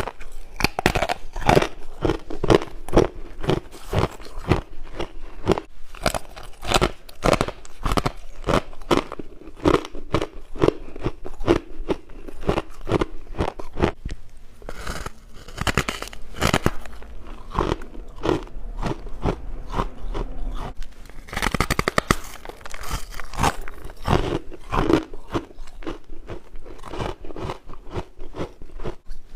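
A person chewing frost ice close to the microphone: a rapid run of crunches, several a second, with a denser, busier stretch of crunching a little past two-thirds of the way through.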